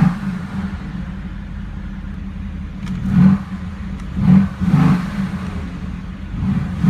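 Mercedes-AMG GT S twin-turbo 4.0-litre V8 idling through its performance exhaust in the regular (comfort) drive mode. It is blipped three times, briefly, about three to five seconds in.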